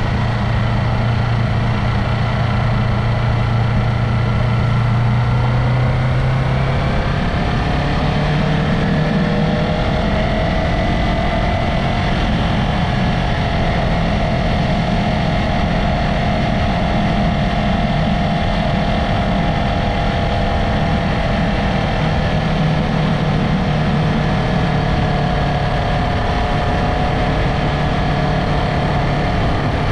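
Yamaha MT-03's parallel-twin engine running on the move, rising in pitch as it speeds up between about four and ten seconds in, then holding a steady pitch, with wind and road noise underneath.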